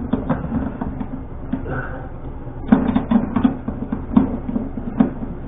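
A hand tool working a threaded bolt loose on a toilet: a run of irregular metallic clicks and knocks, most frequent about halfway through.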